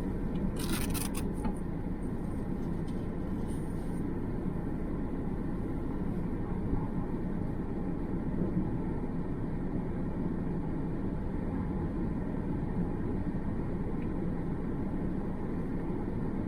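Steady low rumble of a running vehicle, with a few faint clicks about a second in.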